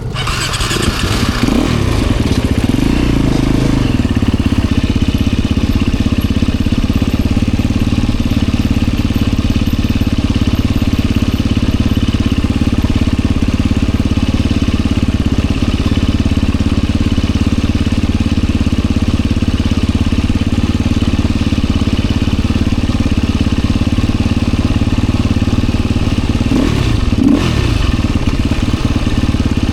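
Enduro dirt bike engine running steadily at low, even revs while riding, with a brief change in revs near the end.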